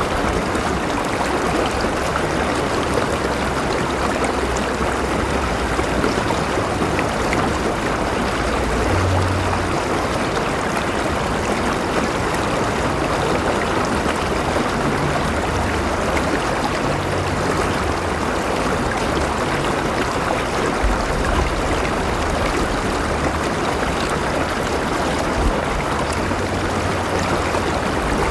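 River water flowing steadily, a continuous rush with some bubbling and a patchy low rumble.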